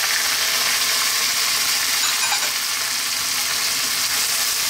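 Diced tomatoes, garlic and onion sizzling steadily in hot oil in a nonstick pan, stirred with a wooden spatula as they sauté.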